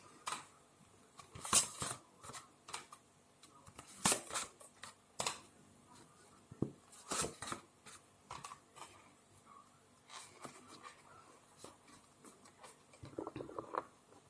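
Tarot cards being handled: scattered soft rustles and light taps, a dozen or so, irregularly spaced.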